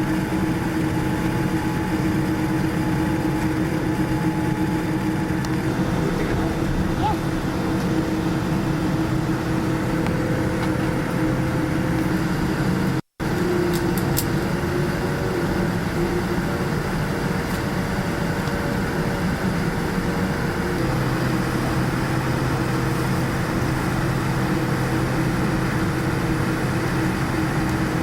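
Steady cabin noise inside a Boeing 787-9 on the ground, with its engines and cabin air running at idle: a constant roar-free hum carrying a few steady tones. It cuts out for an instant about halfway through.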